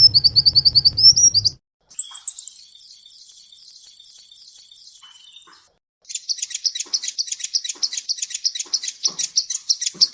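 Songbird song in three separate passages with short silent gaps between them. First come rapid repeated chirps over a low hum. Then a fast, very high trill runs for about three and a half seconds. Last comes a quick run of sharp, stuttering notes.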